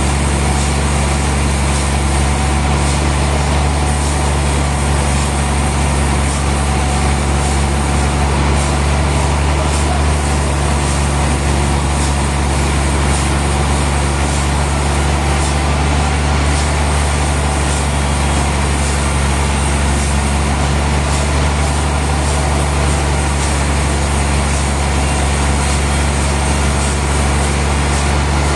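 Sawmill machinery running steadily with a deep, even engine hum that does not change in level, and faint light ticks every second or so.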